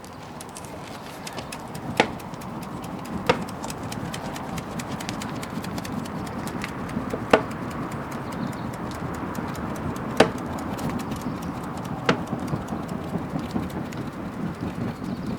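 Wood bonfire burning with a steady crackle, broken by five sharp, louder pops from the burning wood.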